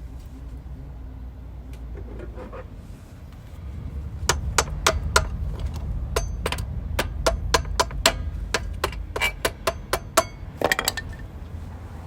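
A hammer striking metal: about twenty sharp, uneven blows, some leaving a brief metallic ring. They start about four seconds in and stop near the end.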